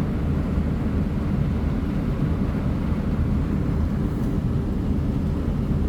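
Tractor engine running steadily as it drives slowly through the rain, a constant low drone.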